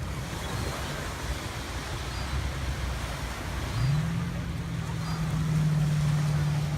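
An engine running with a steady low hum; about four seconds in its pitch rises and then holds at the higher speed.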